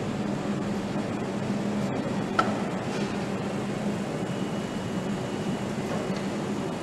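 Steady mechanical hum and rumble with a low drone, and one short sharp click about two and a half seconds in.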